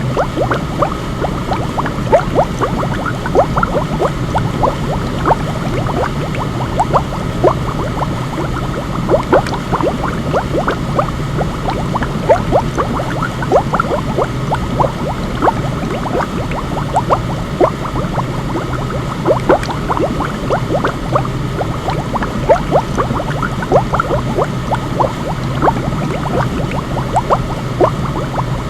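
Steady sound of bubbling water: a low, dull rushing bed with many small bubble pops, several each second, going on evenly without a break.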